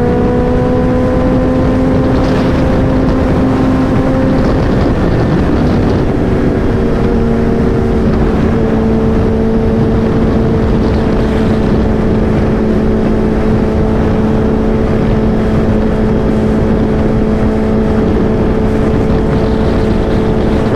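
Motorcycle engine running at a steady cruise, with wind rushing over the microphone. The engine note climbs slightly over the first few seconds, breaks briefly about five seconds in, then holds steady again.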